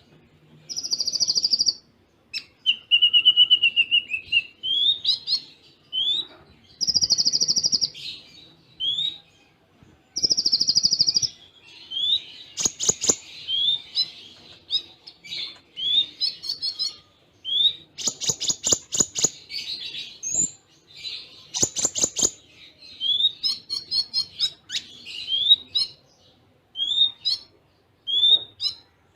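Konin (kolibri ninja) sunbird singing with cililin-style phrases and short gaps between them. The song mixes high buzzy notes, a trill, many short rising chirps, and several bursts of rapid sharp clicking notes.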